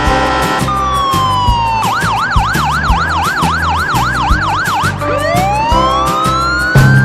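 Cartoon soundtrack music with a steady beat, over which a siren-like sound effect plays. A falling tone gives way to a rapid up-and-down wail for about three seconds, about three cycles a second, which then turns into long rising whoops.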